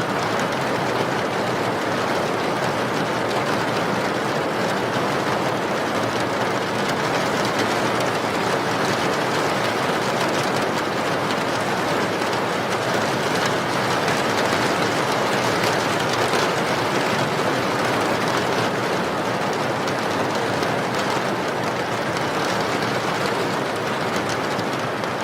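Steady rain: a dense, even hiss of falling rain with no breaks.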